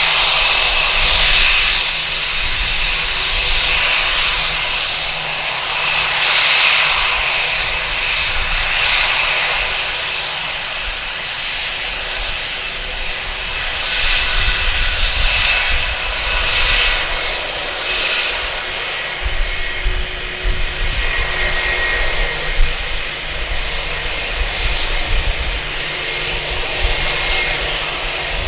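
Jet engines of a Qatar Airways cargo plane running loudly. The roar is steady, with a high whine over it and a deep rumble beneath, and it swells and eases slowly.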